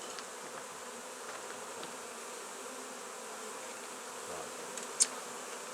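A mass of honey bees humming steadily as their nest combs are cut out and moved into a nuc box, with a single sharp click about five seconds in.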